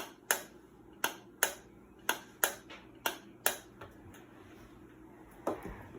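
Water-level pressure switch of an Amana washing machine clicking in pairs, about eight clicks in the first three and a half seconds, as air is blown into its tube and let out. The switch trips and resets each time, the sign that it is working.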